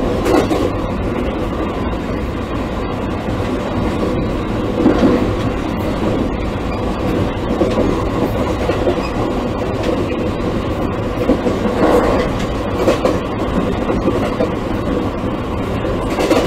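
Running sound inside an E653 series 1100 electric train's motor car: the steady rumble of wheels on rail, with a few louder clacks about five, twelve, thirteen and sixteen seconds in.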